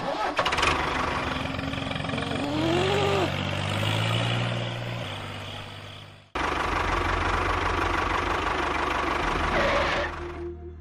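A motor running steadily with a low hum, with a brief rising-and-falling tone partway through; the sound cuts off abruptly a little past halfway and starts again at once.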